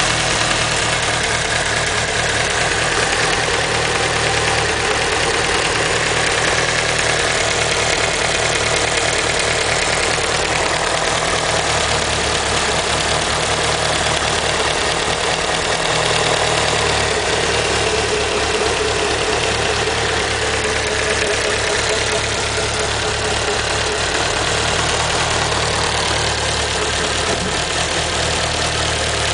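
Mitsubishi Lancer Evolution engine idling steadily, with a ticking that the owner suspects is lifter tick.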